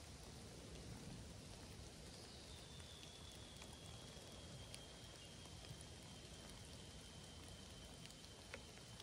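Faint light rain: an even hiss with scattered drops ticking, one sharper drop hit near the end. From about two seconds in, a thin high whistling tone holds on and slowly sinks in pitch.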